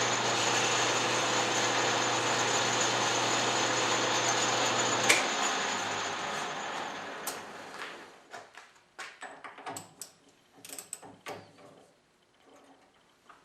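Lathe running in reverse with a steady hum and whine while the inside of a hole is deburred. About five seconds in there is a click and the machine winds down over a couple of seconds, leaving scattered light clicks and knocks.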